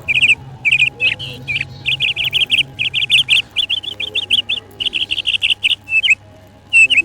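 Budgerigars chirping in quick runs of short, high, repeated notes, over a low steady hum.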